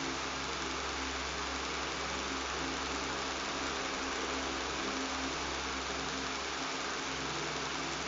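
Electric fan running steadily: an even, airy hiss over a low motor hum, with no change in pitch or level.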